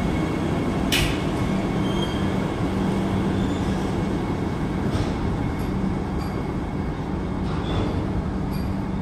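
Vande Bharat Express electric multiple unit departing and rolling past along the platform: a steady running rumble with a low hum. There is one sharp click about a second in.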